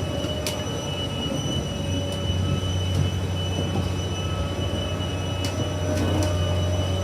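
2002 Liebherr R984 hydraulic excavator running: a steady low diesel drone with a constant high whine over it, and a few short sharp clicks.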